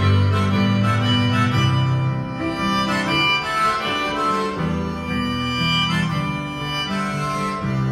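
Instrumental break in a live folk song: a harmonica plays the melody over a plucked-string and low chordal accompaniment.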